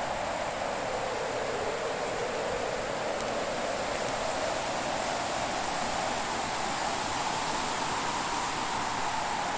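Winter fireplace ambience: a steady rushing hiss that slowly rises and falls in pitch, with a faint crackle from the fire now and then.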